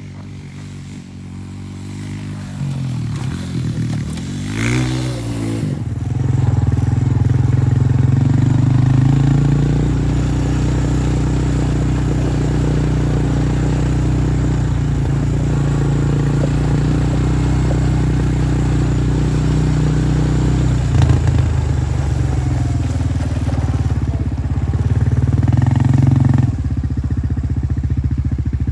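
Pit bike engine revving up and down a few times, then held at high revs under steady throttle, with a brief dip about three quarters of the way through, and dropping back near the end.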